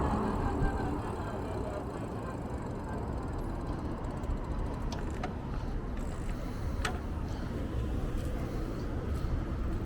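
Steady low rumble typical of a moving vehicle, with a few brief faint clicks about five to seven seconds in.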